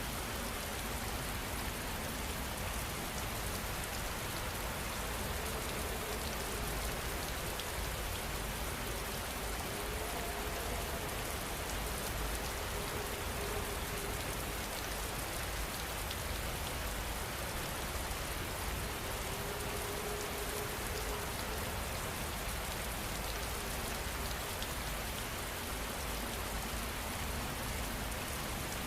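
Steady rain falling, an even hiss of many drops with small scattered ticks.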